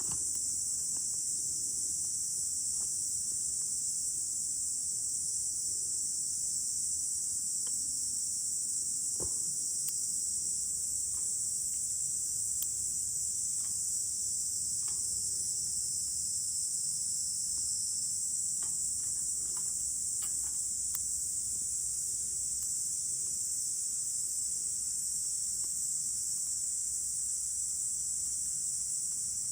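A steady, high, unbroken chorus of insects, with a few faint scattered clicks.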